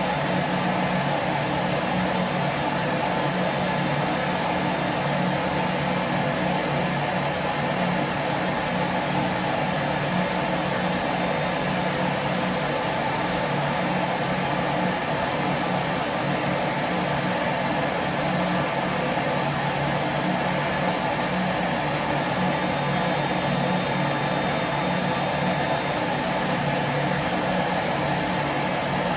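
Vacuum cleaner motor running steadily: a constant low hum under an even rushing hiss, with no change in pitch or level.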